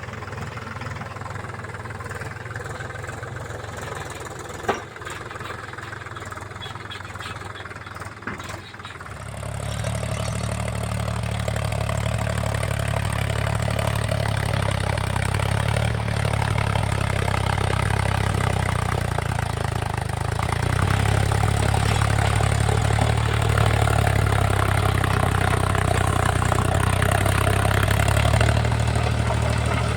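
Mahindra tractor's diesel engine running at low speed, with a sharp click twice. About a third of the way in it speeds up and then runs louder and steadier at higher throttle.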